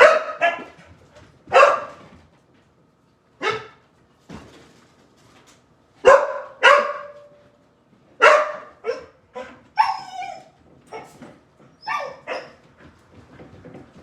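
A dog barking, about a dozen short, sharp barks at irregular intervals, with one longer bark falling in pitch about ten seconds in.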